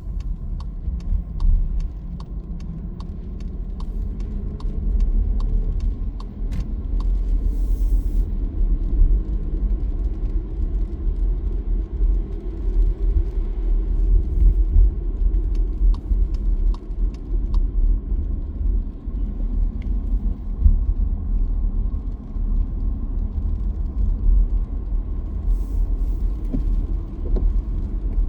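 A car driving, a steady low road rumble, with scattered light ticks over it, most in the first ten seconds and a few again near the end.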